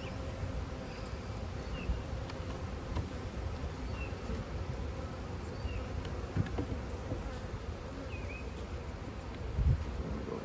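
Honeybee swarm buzzing steadily, many bees flying around the hive. A few low thumps, the loudest near the end, and faint short bird chirps.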